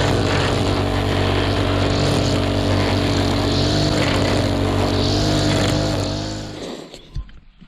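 Petrol strimmer engine running steadily, then shut off and dying away about six and a half seconds in.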